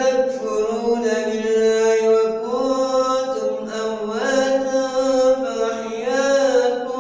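Male reciter chanting the Quran in melodic tajweed style, drawing out one long ornamented phrase whose pitch steps up and down.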